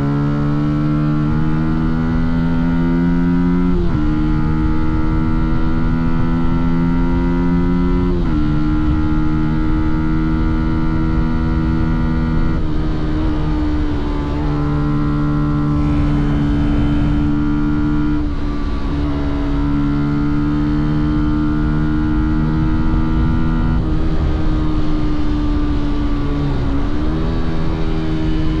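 Fantic Caballero 125's single-cylinder engine and exhaust under way, holding a steady note that breaks and steps to a new pitch about five times, as at gear changes.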